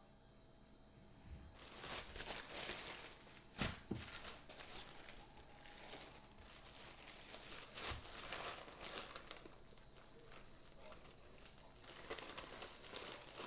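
Plastic packaging of sliced deli ham crinkling and rustling as the slices are pulled out and handled, starting about a second and a half in, with a few sharp knocks along the way.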